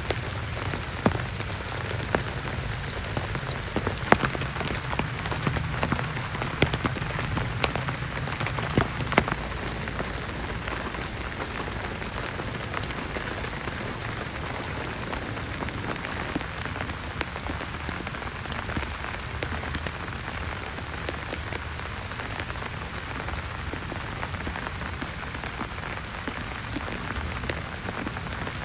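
Heavy rain falling steadily on a surface, with sharper single drop hits standing out during roughly the first nine seconds.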